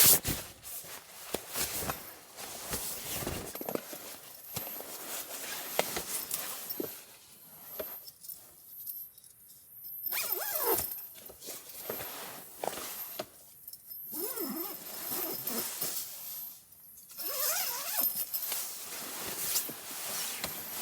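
Camping gear being handled by hand: irregular clicks, knocks, light clinks and rustles, with a few short pauses and brief squeaks.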